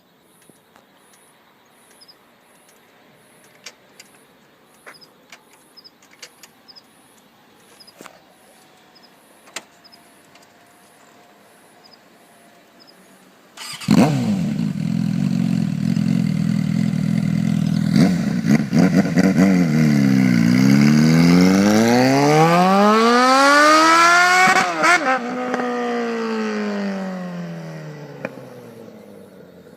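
Suzuki Bandit 650S motorcycle's inline-four engine bursts into loud running about halfway through after near quiet. It holds a steady pitch for a few seconds, dips, then revs up in a long rise to a peak. After that the pitch and loudness fall away over the last few seconds.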